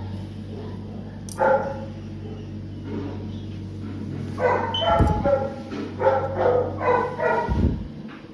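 A dog barking and yelping in three short bouts, over a steady low hum.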